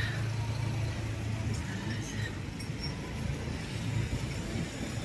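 A vehicle engine running with a steady low hum, over general street noise.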